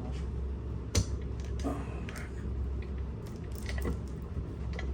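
Hands working on pump parts: a sharp knock about a second in, then scattered small clicks and rustles, over a steady low hum.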